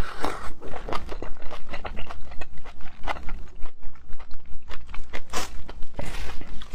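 Close-miked chewing of raw scallop, with wet mouth and biting sounds coming about three to four times a second and a louder noisy burst near the end.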